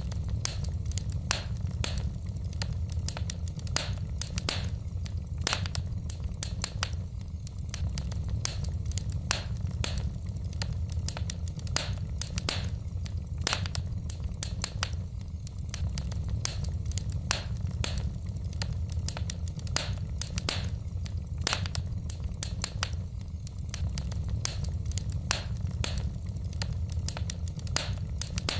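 Wood fire burning in a fireplace: logs crackling and popping with many irregular sharp snaps, several a second, over a steady low rumble of the flames.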